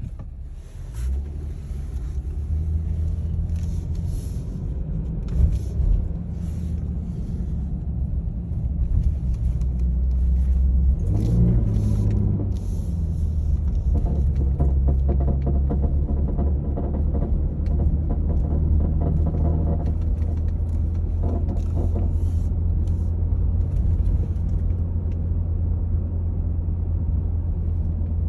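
2020 Jeep Cherokee Trailhawk 4WD running with a steady low rumble, overlaid by irregular crackling pops that sound like popcorn. This is the intermittent grinding noise the owner is complaining of. A brief rising tone comes in about eleven seconds in.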